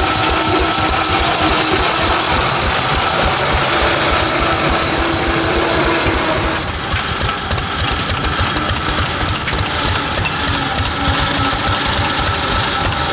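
Vintage engines running with a rapid, even beat of firing strokes; the sound changes abruptly about halfway through.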